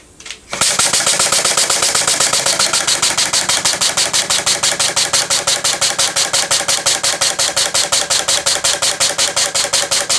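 Homemade single-acting poppet-valve model steam engine running on compressed air, starting up about half a second in and then chuffing at a fast, even beat of about eight exhaust puffs a second.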